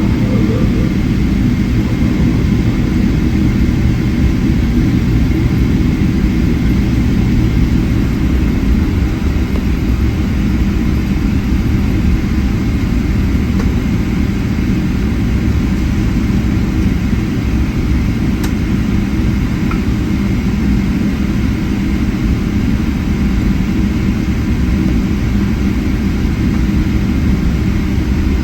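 Inside the cabin of a Boeing 777-300ER taxiing, its GE90-115B turbofans running at low taxi thrust: a steady, loud low rumble with a faint thin whine above it.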